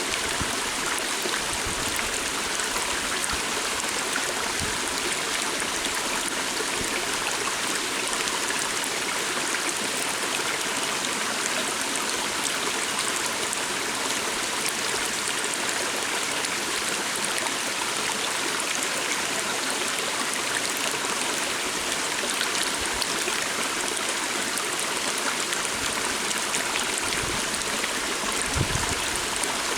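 A small stream flowing steadily, an even rush and trickle of water.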